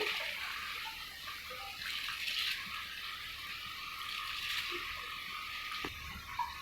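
Water at the boil bubbling in a cooking pot, a steady hiss, with a short light knock near the end.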